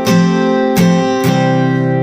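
Background music: an acoustic guitar strumming chords, three strums with the last chord, about a second and a quarter in, left ringing.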